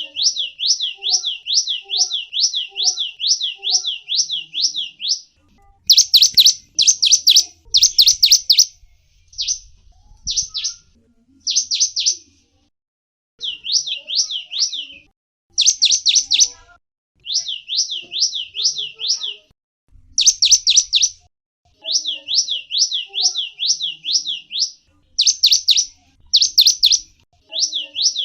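Gelatik wingko, a small songbird, chirping in fast runs of short, high, sweeping notes, about six a second, in bursts of a second or two with brief pauses between.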